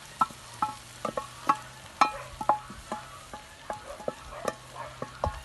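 A metal utensil knocking and scraping against a kazan while stirring meat, carrots and onions frying in oil, about two or three knocks a second, each ringing briefly, over a faint sizzle.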